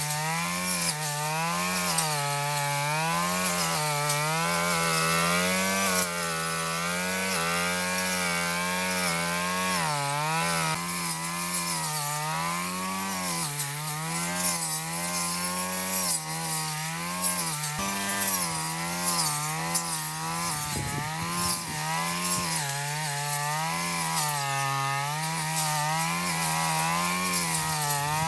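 Small lawn mower petrol engine running, its pitch wavering up and down every second or two.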